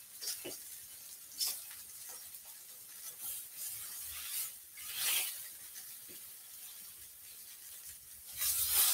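Sesame-crumbed chicken tenders frying in a pan: a faint sizzle with occasional scrapes and taps of a utensil against the pan, the sizzle growing louder near the end.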